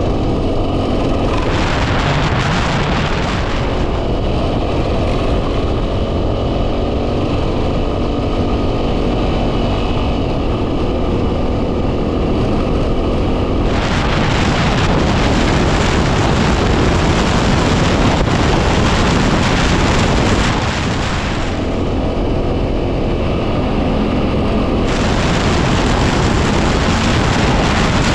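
A 2010 Yamaha WR250R's single-cylinder four-stroke engine running under way, heavily buffeted by wind noise on the microphone. Bursts of harsher wind hiss come and go three times.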